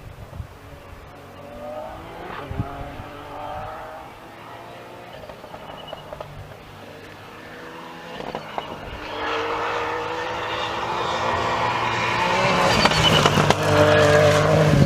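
Rally car engine approaching, revving up and falling back through gear changes and growing steadily louder, loudest near the end.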